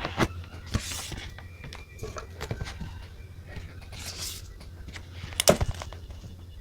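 Handling of diary and stationery on a desk: scattered small taps and clicks, two brief paper-like rustles about a second in and about four seconds in, and a sharper click about five and a half seconds in.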